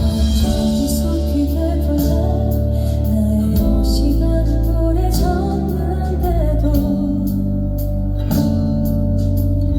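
A woman singing a slow ballad live, her melody held and bending over sustained keyboard and guitar accompaniment.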